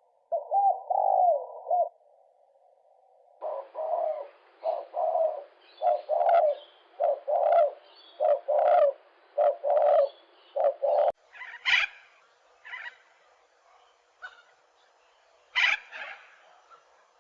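Birds calling: a run of short, repeated low calls about two a second, then sparser, sharper and higher calls about two-thirds of the way through.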